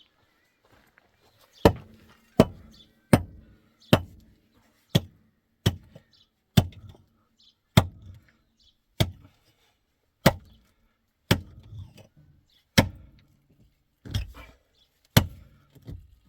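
A series of sharp, heavy strikes, about fourteen of them at roughly one a second, slightly irregular, each with a short low thud, beginning a moment in.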